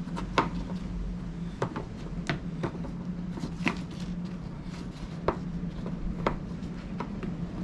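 Scattered light clicks and taps of plastic headlight parts being handled and fitted, lined up by their slots, over a steady low hum.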